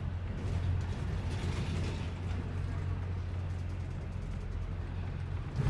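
A steady low engine hum with rattling and creaking mechanical noises over it.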